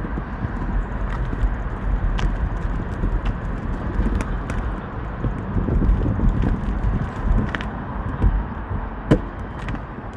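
Wind rushing over the microphone and tyre noise from a MiRider One e-bike being ridden, with scattered small clicks and rattles.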